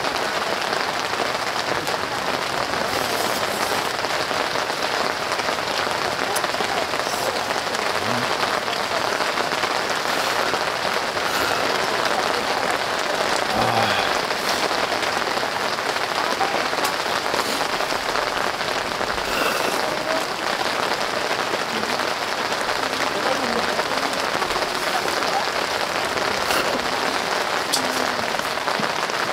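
Heavy rain from a sudden shower falling steadily on a tent, with scattered sharper drops.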